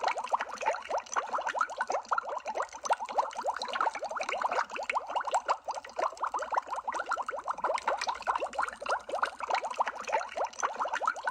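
Underwater bubble sound effect: a steady, dense stream of bubbles, each a quick rising blip.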